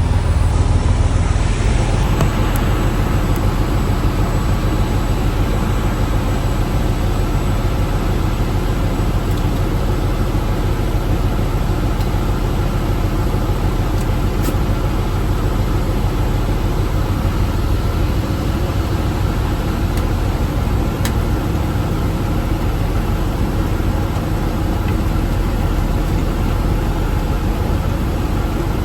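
Fire engine on the move: a steady, heavy low rumble of engine and road noise.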